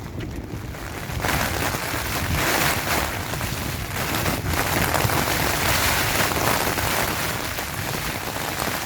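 Heavy rain driven by gusting wind against a tent, swelling louder about a second in and surging with the gusts.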